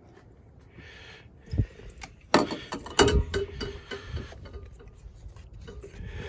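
Hand work on an engine: a short faint hiss about a second in, then a low thump and two sharp clicks or knocks around the middle, with scattered rustling and ticks of tools and parts being handled.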